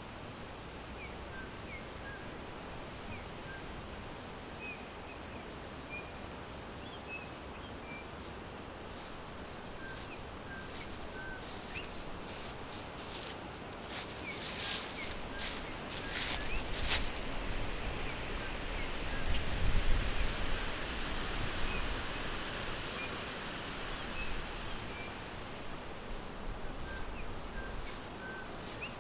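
Forest ambience with small birds chirping: short high chirps scattered throughout over a steady background hiss. Around the middle come a few sharp crackles, then a louder rustling rush with a low rumble swells and fades.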